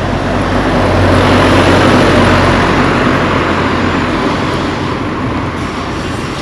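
A motor vehicle passing close by on the road: engine and tyre noise swell over the first two seconds, then fade away.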